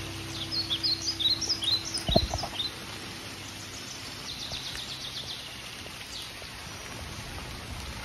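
Wild birds chirping in woodland: a burst of quick, high, falling chirps in the first few seconds and fainter ones later, over a steady outdoor hiss. A single low thump comes about two seconds in.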